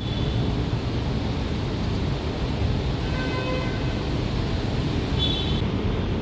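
Steady rumble of a Jakarta LRT light-rail train running along the track. Faint, brief high-pitched tones come in about halfway through and again near the end.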